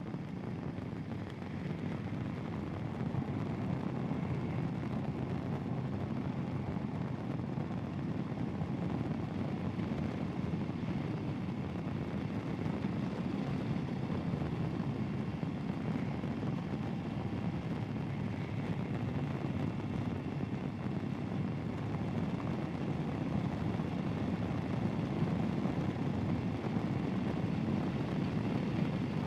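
Royal Enfield Himalayan's single-cylinder engine running steadily at cruise while riding, mixed with wind rush.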